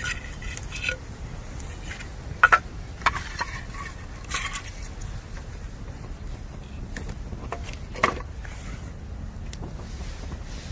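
Bamboo burning in a campfire, crackling with scattered sharp pops, the loudest a quick double pop about two and a half seconds in and another near eight seconds, as moisture heats inside the stalks. A low steady rumble runs underneath.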